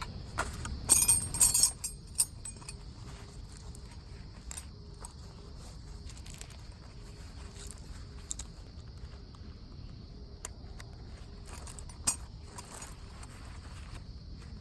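Small metal objects clinking and jangling as they are handled, loudest in a cluster about a second in, with one more sharp clink near the end. A steady high-pitched drone runs underneath.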